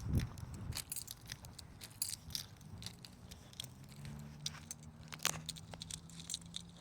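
Irregular light clicks and rustles of handling noise. A low steady hum comes in about two and a half seconds in.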